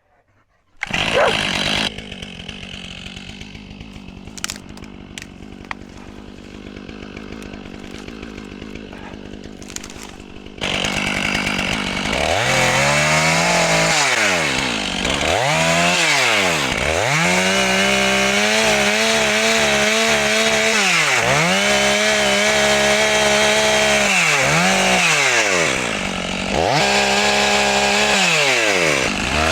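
Chainsaw starting about a second in and idling, then opening up to full throttle from about ten seconds in to buck a pine log, its engine pitch dropping and recovering again and again as the chain bites into the wood.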